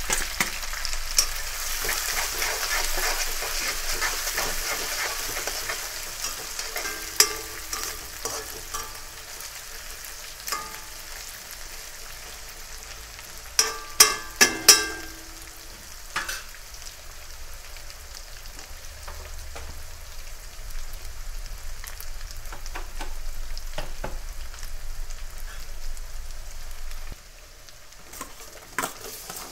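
Chopped onion sizzling in hot oil in an aluminium kadhai while a steel ladle stirs it. The sizzle is loudest in the first few seconds, then settles. About fourteen seconds in there is a quick run of ringing metal clinks as the ladle knocks against the pan.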